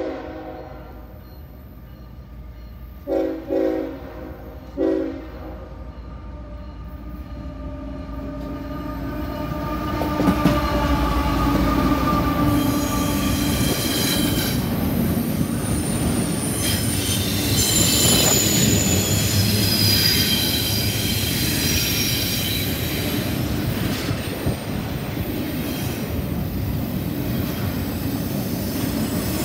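A CSX freight train sounds its horn in a few short blasts in the first five seconds. It then passes close by from about ten seconds in: the locomotives, then double-stack container cars rolling past with steady rail noise and high-pitched wheel squeal.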